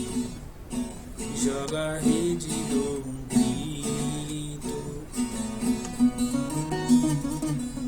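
Acoustic guitar playing an instrumental passage of a song, strummed and picked with a steady beat.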